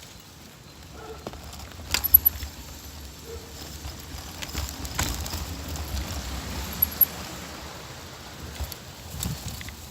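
Bicycle riding as heard from a phone clipped to the handlebars: a steady low rumble of tyres and wind, with sharp rattles and knocks a few times as the bike goes over bumps.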